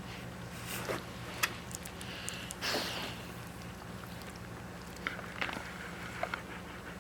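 Newborn Shepherd puppies stirring, with small clicks, sniffs and a brief squeak over a steady low hum.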